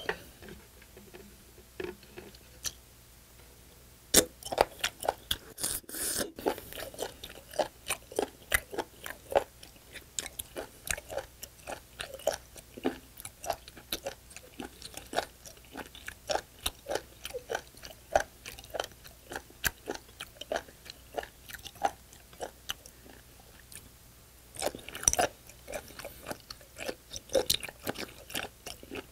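Close-miked chewing of raw spoon worm and sea cucumber: after a quiet few seconds, a steady run of sharp, wet clicks at about two or three a second. Louder clusters come near the start of the chewing and again near the end.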